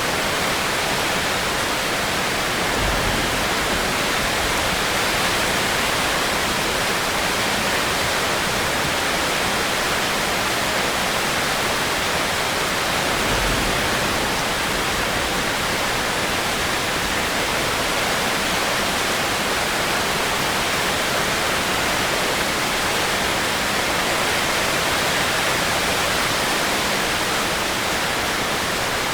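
Steady, dense rain, an even hiss with no let-up, and two brief faint low rumbles about 3 and 13 seconds in.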